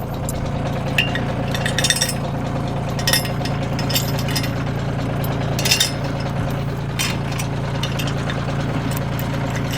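Kioti tractor's diesel engine idling steadily, with scattered metallic clinks about once a second as one side of the drag implement's hitch is shortened to angle it.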